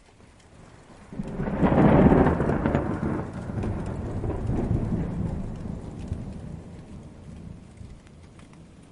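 A roll of distant thunder that swells about a second in, peaks soon after and rumbles away slowly, with light rain falling.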